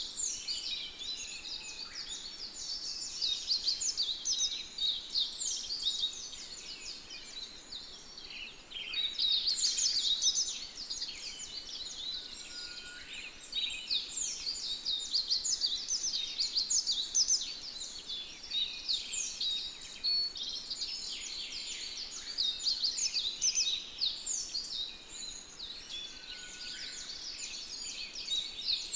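A dense chorus of many small birds chirping and twittering continuously, swelling and fading in waves.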